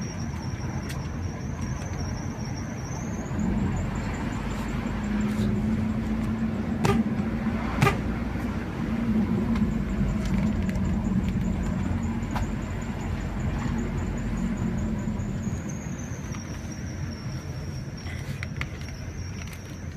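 Car driving, with steady engine and road rumble. The engine note rises about three seconds in and eases off near the end, with two sharp knocks around the middle.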